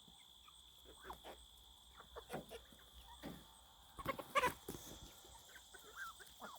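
A flock of chickens and ducks making soft, scattered calls while eating kiwi fruit, with a louder flurry of calls about four seconds in.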